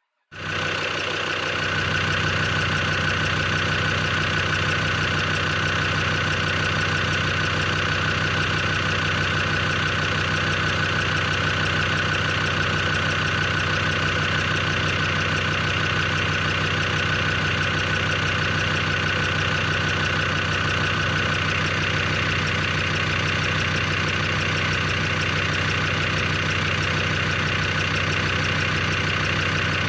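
Land Rover Defender Td5 five-cylinder turbodiesel engine idling steadily with a tick and tapping sound that the owner cannot trace: oil pressure is good and the hydraulic lifters hold pressure, and he wonders whether it comes from the injectors.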